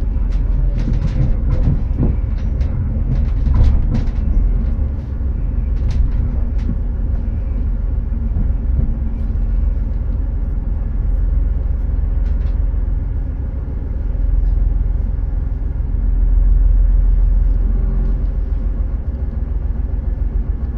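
Passenger train heard from inside the carriage, running with a steady low rumble. Sharp clicks and knocks come in a cluster during the first several seconds, with a few more later.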